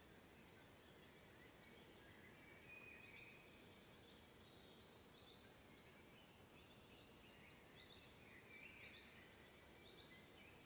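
Faint forest birdsong: a high, thin, slightly falling note repeated about once a second, over softer scattered chirping lower down. Two of the high notes stand out louder, about two and a half seconds in and near the end.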